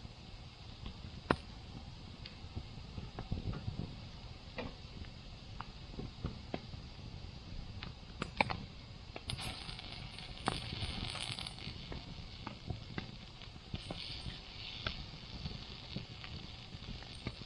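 Wood campfire crackling with irregular sharp pops over a low rumble, with a stretch of hissing about nine to twelve seconds in.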